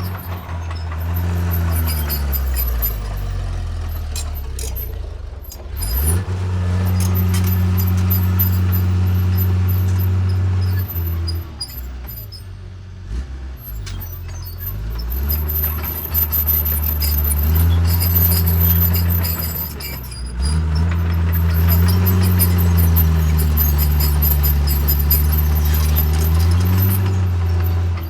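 Caterpillar D3C bulldozer's diesel engine working under changing load. Its pitch drops and picks up again several times, and it is quietest for a few seconds in the middle. Scattered short metallic clicks sound over it.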